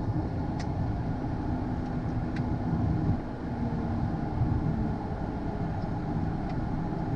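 Steady low rumble heard inside the cockpit of a Hawker 800XP business jet taxiing, its turbofan engines near idle. A couple of faint clicks come through.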